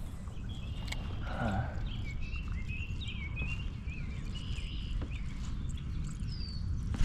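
Birds chirping in a series of short, wavering calls, most of them in the middle of the stretch, with a short falling whistle near the end, over a steady low rumble.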